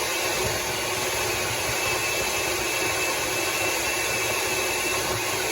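Electric blender running steadily, its motor whirring as it blends coconut for coconut milk.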